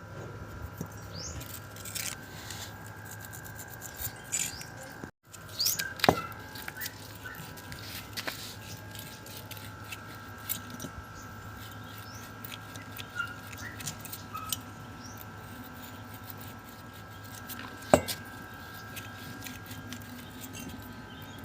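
Scattered light clicks and knocks of hand work on alternator parts, with two sharper clicks about 6 and 18 seconds in, over a faint steady high hum.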